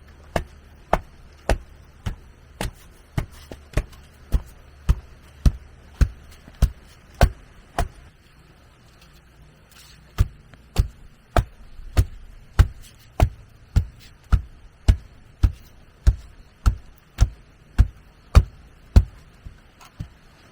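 Steady, evenly paced strikes of a hand tool, a little under two a second, pausing for about two seconds midway and then resuming; the last few blows are lighter.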